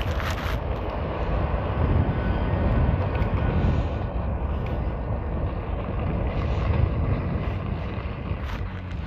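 Steady wind rumble on the microphone of an all-wheel-drive fat-tire e-bike riding at speed.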